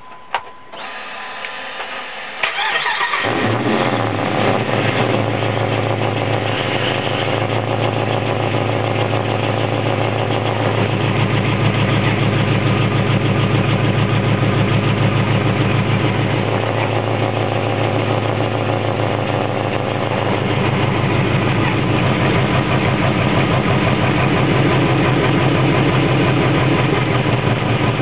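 2005 Dodge Ram 1500's 5.7-litre Hemi V8 cranked by the starter, catching after about two seconds, then settling into a steady idle.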